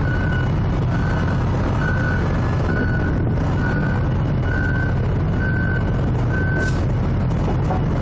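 Forklift reversing alarm beeping about once a second, eight beeps, stopping about two-thirds of the way through, over a steady low engine rumble.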